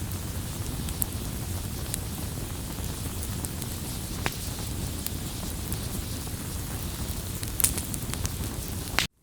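Wood bonfire burning: a steady low rush of flames with scattered sharp crackles and pops from the burning wood. The sound cuts off suddenly near the end.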